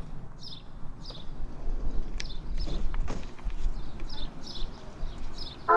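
Small birds chirping outdoors, short high calls repeated every few tenths of a second, with a few sharp clicks and a low rumble underneath.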